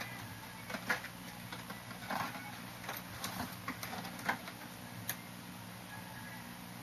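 Kittens moving about, making a scatter of light scuffs and taps over a few seconds above a steady low hum.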